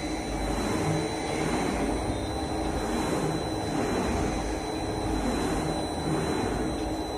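Elevator hoist machine running steadily, a continuous mechanical rumble with a faint high, even whine.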